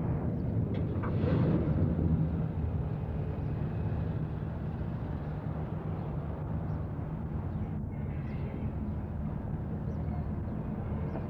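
Engine of a small ride-on train running steadily, a low rumble.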